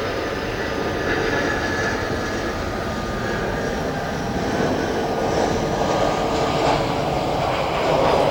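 Airliner's engines running as it passes close by: a steady rush with a faint high whine, growing a little louder near the end.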